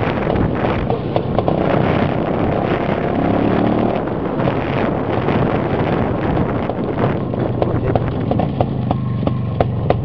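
IZh two-stroke motorcycle engine running under load, revving up about two to four seconds in, then dropping to a slower, evenly pulsing beat near the end.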